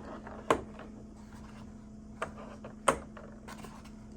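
A few sharp knocks and clacks of objects being handled and set down, about half a second in and twice more between two and three seconds, over a steady low hum.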